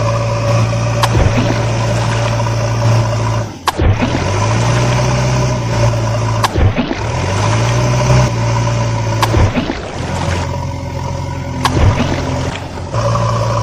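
Vehicle engine running steadily, its pitch rising a couple of times as if revving up, broken by short sharp clicks every few seconds.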